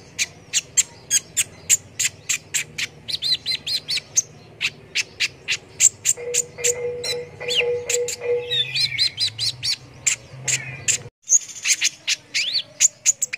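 Small songbirds chirping: a fast, steady run of sharp, high chirps, several a second, mixed with short trilled phrases. The sound cuts out abruptly for a moment about eleven seconds in, then the chirping carries on.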